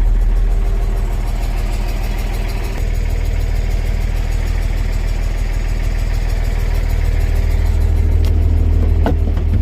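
Mercedes-Benz 1217 fire truck's diesel engine running steadily at low revs, its note shifting slightly about three seconds in. A short rising squeak comes near the end.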